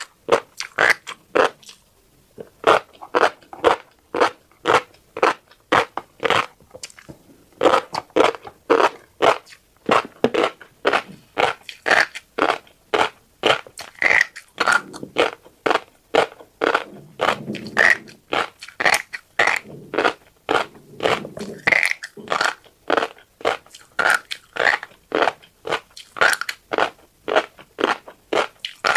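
Close-miked crunchy chewing of dry tiny black seeds, in a steady rhythm of about two to three crisp crunches a second, with a short lull about a second in.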